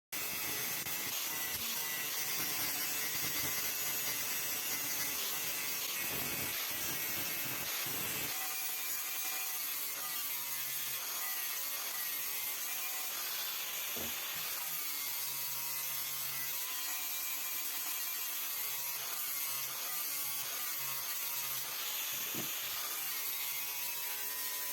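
Continuous scraping and rubbing of tool work on the rusty steel head of an old sledgehammer as the rust is worked off.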